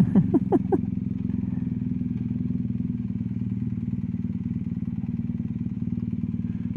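BMW R1250GS Adventure's boxer-twin engine idling steadily, holding an even low pitch.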